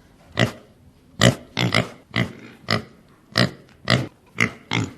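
Pig grunting: a run of about ten short grunts, roughly two a second.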